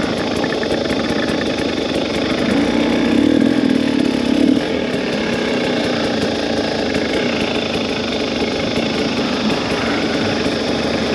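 Two-stroke dirt bike engine running at a steady, low speed. It gets a little louder for a couple of seconds about three seconds in.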